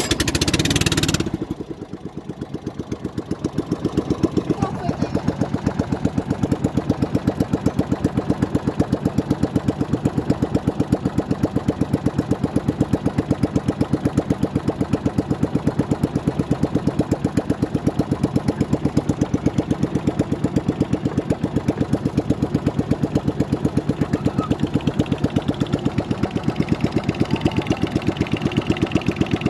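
Small boat engine running steadily with a fast, even putter, after a loud rushing burst in the first second.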